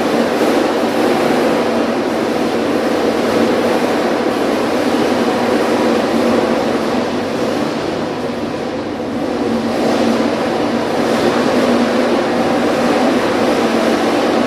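A loud, steady noise with no pitch to it, holding level throughout.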